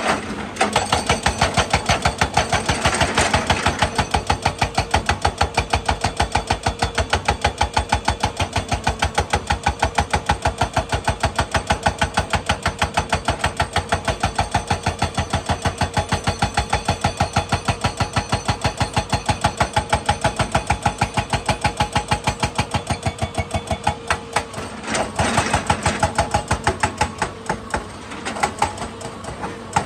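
Excavator running with a rapid, even knocking, several beats a second, that keeps going with only a short break about 25 seconds in.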